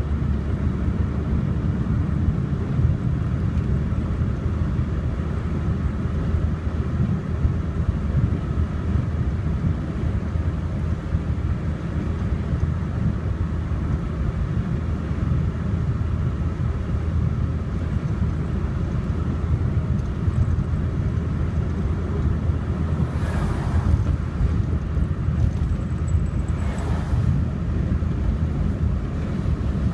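Steady road and engine noise of a car driving, a continuous low rumble, with two brief whooshes past the middle.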